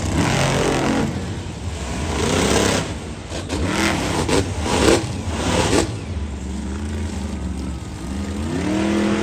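Monster truck engine revving hard over and over, its pitch climbing and falling with each blip of the throttle and a last long climb near the end.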